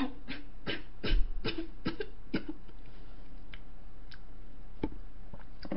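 Close-miked chewing and wet mouth clicks from a mouthful of bingsu: a quick run of irregular clicks over the first couple of seconds, the loudest about a second in, then a few scattered ones. A steady low electrical hum runs underneath.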